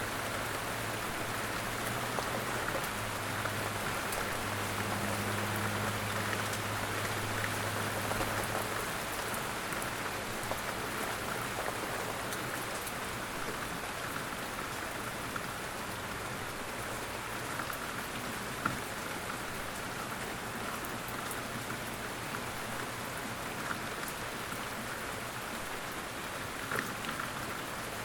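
Light rain falling steadily, an even patter with a few louder single drops landing close by.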